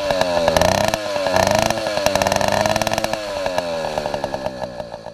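Small engine revving up and down several times, fading near the end.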